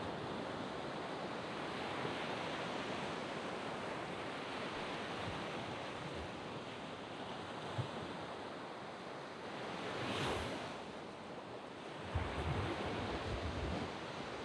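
Sea waves breaking and washing on a sand beach, a steady rush of surf with one wave swelling to a louder break about ten seconds in.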